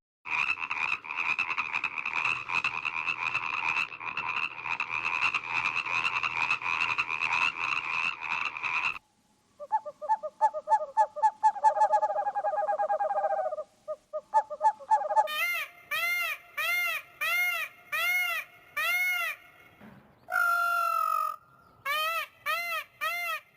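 Several different animal calls cut one after another: first a dense, rapid trilling call lasting about nine seconds, then a different pulsed call, and in the second half a run of short rising-and-falling calls, about two a second, broken once by a brief held note.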